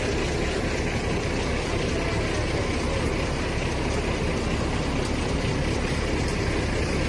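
A heavy vehicle's engine running steadily at idle, a low rumble with even noise over it.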